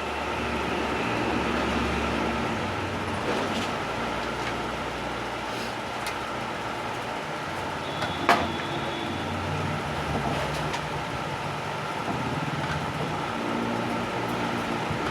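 Steady background rumble and hum, with one sharp metallic clink a little past the middle.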